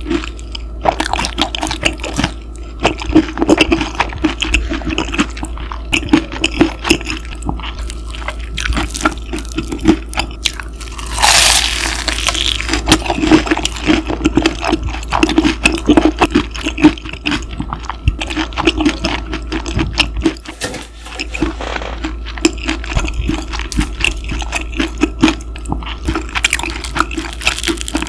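Close-miked chewing of crispy breaded pork cutlet: irregular crunches and wet mouth sounds. Under it runs a steady low mechanical hum that was picked up in the recording.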